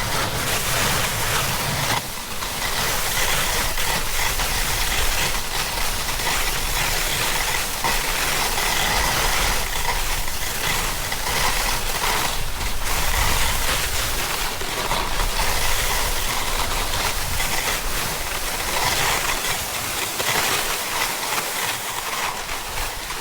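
Snowboard sliding and carving down a snow slope: a continuous hiss and scrape of the board on the snow, with wind rumbling on the microphone underneath.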